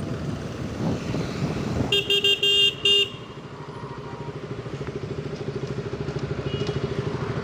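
A motorcycle engine running in traffic, with a vehicle horn honking for about a second roughly two seconds in. The engine's pulse gets gradually louder toward the end.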